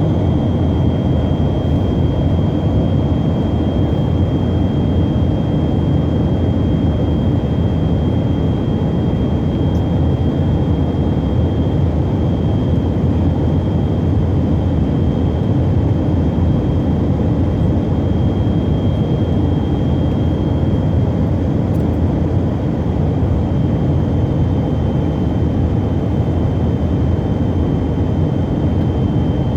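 Steady cabin noise of a Tupolev Tu-134 airliner in level cruise: a low roar from its rear-mounted Soloviev D-30 turbofan engines and airflow, with a thin high whine held steady over it.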